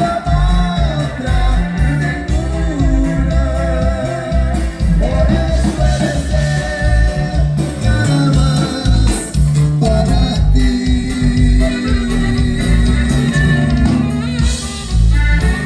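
Norteño band music with a singer over a stepping bass line and sustained melody lines.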